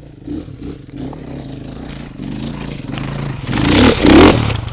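Off-road vehicle's engine revving under load, building to a loud, noisy surge about three and a half seconds in before easing off.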